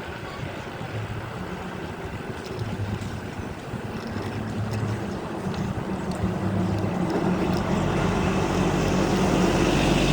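Small motorcycle engine running under way, with wind on the microphone. It gets louder in the second half.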